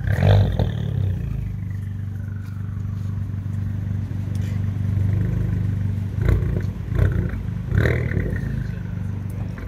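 Abarth 595's turbocharged 1.4-litre four-cylinder engine idling with a deep, steady exhaust note. There is a brief rev at the start and a few short sharp pops near the end as the car begins to creep forward.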